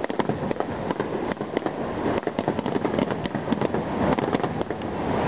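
Aerial firework shells bursting over and over in quick succession: a dense, unbroken run of bangs and crackles.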